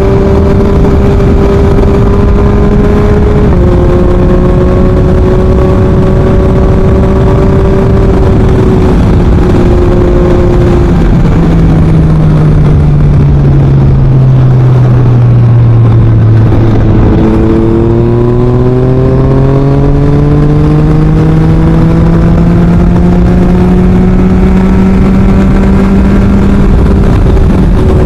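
Yamaha MT-09's 890 cc inline three-cylinder engine through an Akrapovic full exhaust, under way on the road. The engine note holds, sinks steadily for several seconds as the bike slows, then climbs again as it accelerates.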